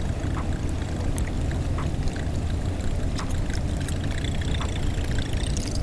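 Steady low rumble of water and wind around a kayak, with a few faint, irregular ticks.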